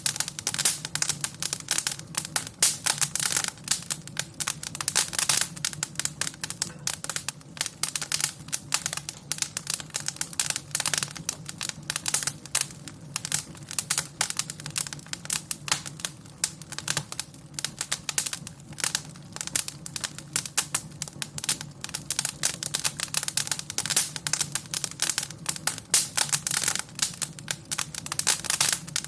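Wood fire crackling in a fireplace: dense, irregular pops and snaps over a low steady hum.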